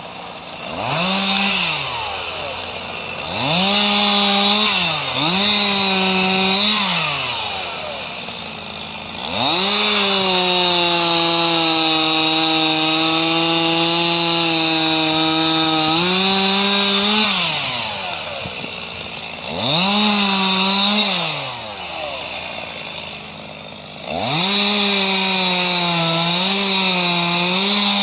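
A two-stroke chainsaw revving up and down again and again. It is held at full throttle for several seconds in the middle and again near the end, as when cutting wood, and drops back between cuts.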